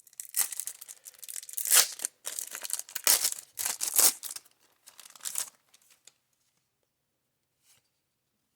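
A pack of 1991 Score baseball cards being torn open, its wrapper rustling and crinkling for about five seconds before the sound stops.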